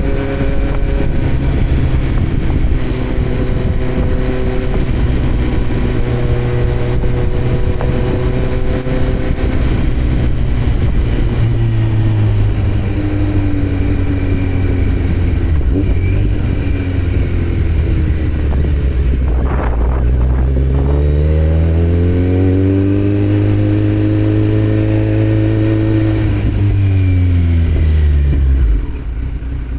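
2018 Kawasaki Z900's inline-four through a Yoshimura muffler on Delkevic headers with no dB killer, heard from the saddle while riding. The engine note holds steady, dips about two-thirds of the way in, then climbs and holds before falling away and quieting near the end.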